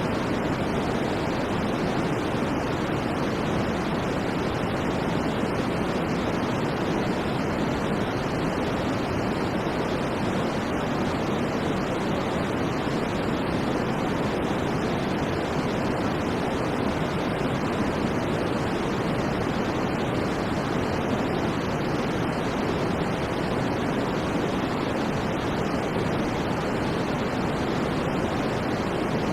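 Steady white noise for sleep: an even, unbroken rushing hiss that never changes in level, weighted more to the low and middle range than the top.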